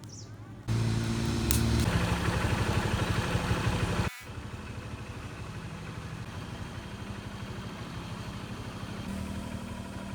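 Motorcycle engine running on the move, the single-cylinder Honda CBZ Xtreme, with a steady pulsing note. It starts abruptly, cuts off about four seconds in, and picks up again more quietly.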